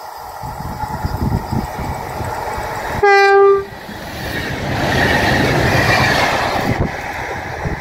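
Passing train sounding one short horn blast about three seconds in, over the rumble of its running; the running noise swells into a rushing hiss just after the horn and eases near the end.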